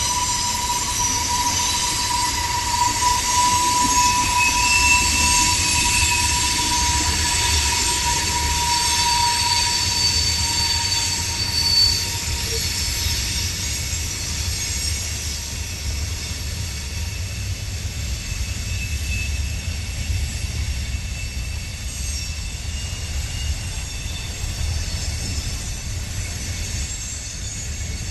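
Train running on the rails: a steady low rumble with wheel squeal in several long, steady high tones, the strongest fading out about ten seconds in.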